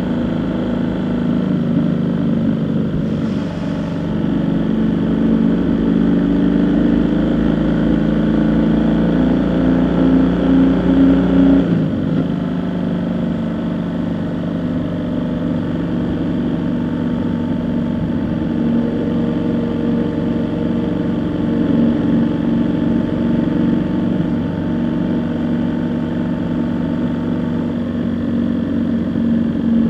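Vehicle engine running steadily while driving, its note changing about twelve seconds in, as at a gear change or a let-off of the throttle.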